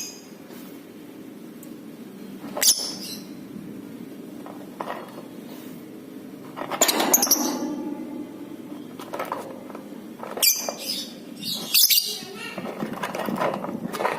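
Lovebird giving short, shrill chirps and squawks in separate bursts a few seconds apart, over a faint steady low hum.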